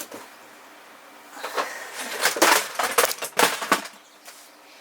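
Several short, irregular bursts of abrasive rasping on metal, from a fresh weld on a motorcycle fuel tank being ground down.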